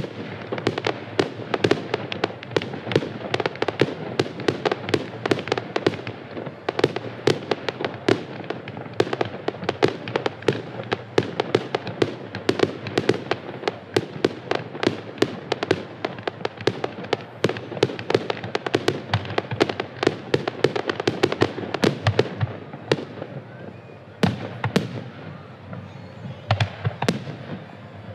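Fireworks display: a dense, rapid barrage of bangs and crackling pops, several a second, thinning over the last several seconds to a few separate bangs.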